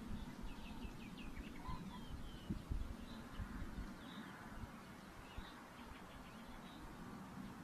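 Newly hatched long-eared owl nestlings giving thin, high begging peeps, repeated every half second or so, with a couple of quick runs of falling chirps, over a low rumble with a few dull thumps.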